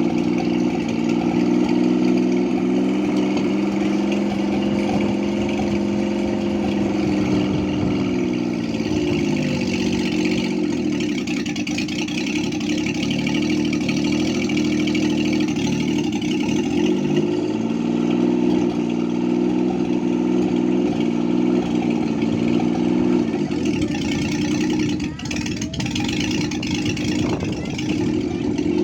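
Homemade helicopter's engine running under trial, its speed falling about a third of the way in, picking up again past the middle, and falling again near the end.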